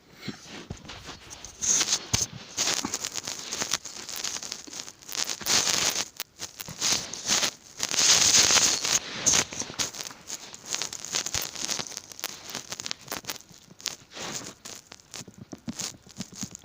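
Irregular scratching and rustling, in quick clusters of short bursts, as a cat claws and grapples at a hand on a soft surface.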